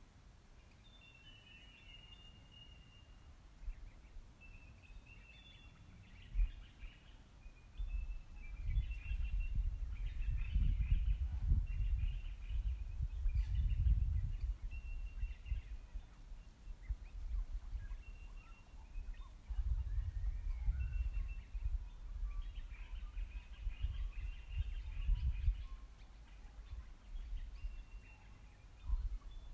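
Wild birds chirping and calling in short, scattered notes. Bouts of low rumble come and go, one about eight seconds in and another around twenty seconds.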